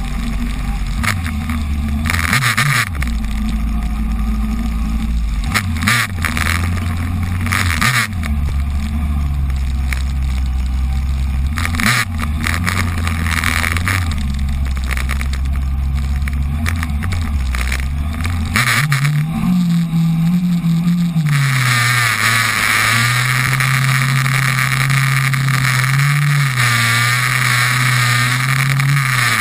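Suzuki Bandit 1200 motorcycle's inline-four engine running at low revs, then revving up about two-thirds in and holding higher. A steady rushing hiss of water spray joins it as the bike pushes through floodwater.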